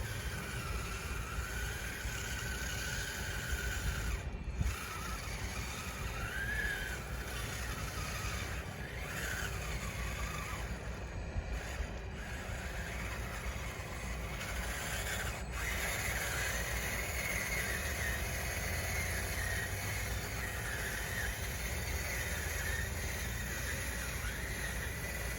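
RC bulldozer's electric drive motors and gearboxes whining under load, the pitch wandering up and down, then stepping higher about a third of the way from the end and holding there, over a steady low rumble.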